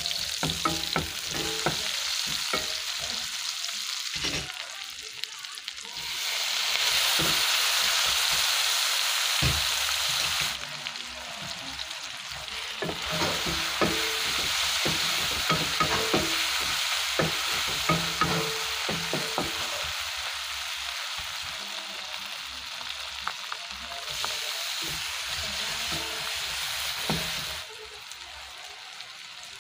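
Pork, onions, garlic and tomatoes sautéing in hot oil in a wok, sizzling steadily while a wooden spatula stirs and scrapes, with frequent sharp knocks against the pan. The sizzle swells louder for a few seconds about a fifth of the way in and drops suddenly near the end.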